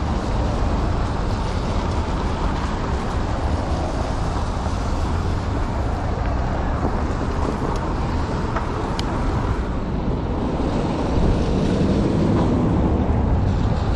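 Road traffic noise from passing cars, with a steady low wind rumble on the microphone; it grows a little louder after about eleven seconds.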